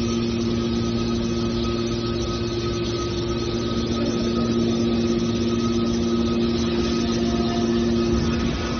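Steel drum baler's hydraulic power unit running: a steady machine hum with a constant low drone and noise underneath.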